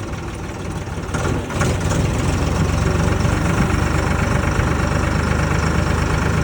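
Ford 3600 tractor's three-cylinder engine running steadily at low revs, growing louder about one and a half seconds in.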